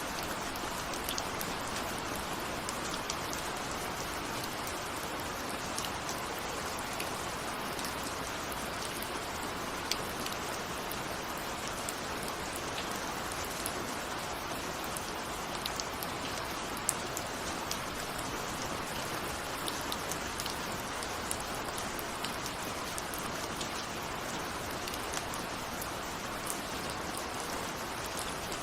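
Steady rain with scattered individual drops ticking against a window.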